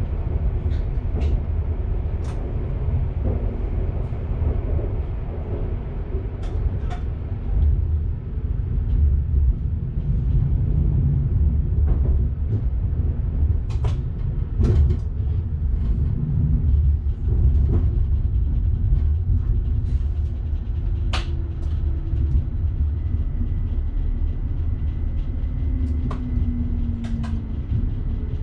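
Train running along the track, heard from the driver's cab: a steady low rumble with scattered sharp clicks and knocks. A faint steady tone comes in during the last few seconds.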